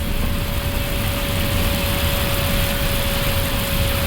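Steady in-flight flight-deck noise of an Airbus A380 on approach: a low rush of airflow and ventilation, with a thin steady whine over it.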